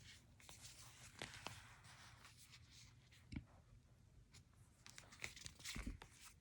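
Faint paper rustling and scattered light clicks and taps of a book being handled.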